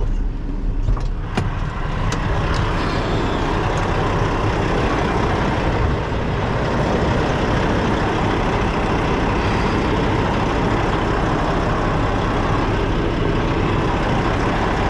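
Semi truck's diesel engine running steadily under load during a tug test, pulling against the coupled trailer to check that the fifth wheel has latched. A few sharp clicks come in the first two seconds.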